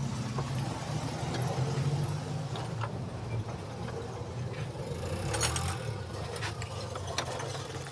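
Scattered light metallic clicks and taps as a bolt and tools are handled while a bolt is threaded in, over a steady low engine hum. The clicks bunch together about five and a half seconds in.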